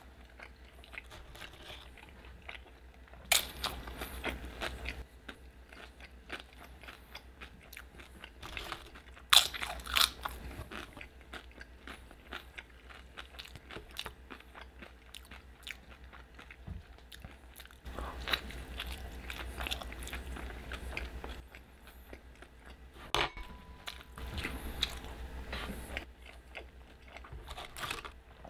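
Close-miked biting and chewing of a shrimp burrito, in about four bouts of a few seconds each with quieter chewing between.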